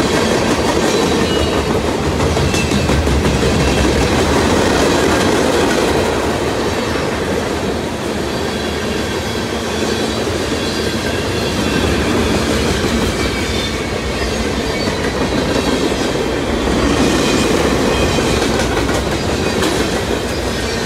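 Freight cars of a long mixed freight train rolling past close by. The steel wheels make a steady loud rumble and clatter on the rails, easing slightly about eight seconds in.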